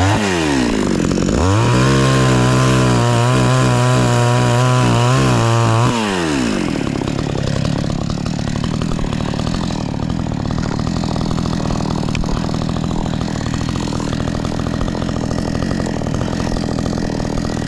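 Two-stroke chainsaw engine: the revs dip briefly, then climb to full throttle and hold high and steady for about four seconds before falling back to a lower, rougher idle for the rest.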